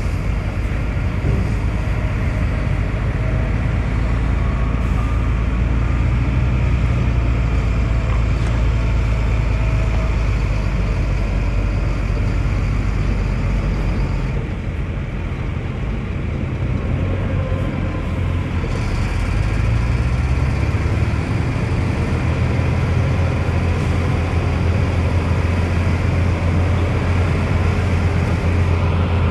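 Diesel engine of heavy earthmoving machinery running steadily under work. It eases off a little about halfway through, then picks up again.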